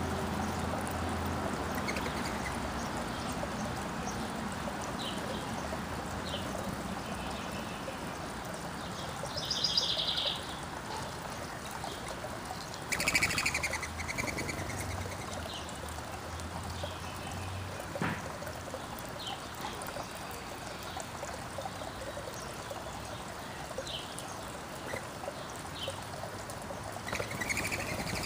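Wild songbirds chirping and calling, with scattered short high chirps and a few louder calls about ten and thirteen seconds in and again near the end, over a steady outdoor hiss.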